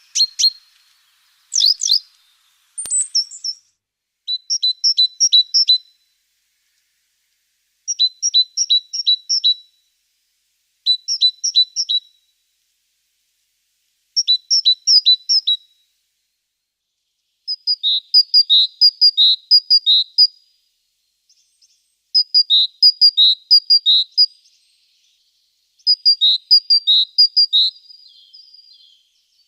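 Small bird chirping in short repeated bursts of rapid high notes, each burst one to two seconds long with gaps of silence between, the bursts becoming denser and faster in the second half. A few scratchy clicks near the start.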